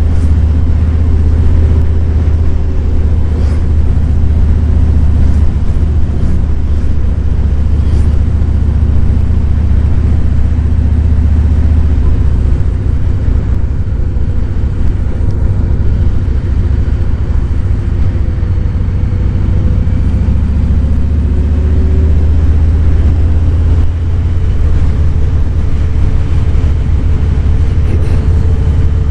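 Harley-Davidson Fat Boy's Milwaukee-Eight 107 V-twin engine running steadily while riding, with a deep, continuous rumble. About twelve seconds in the rumble turns rougher and more pulsed for several seconds, then settles back to a steady note.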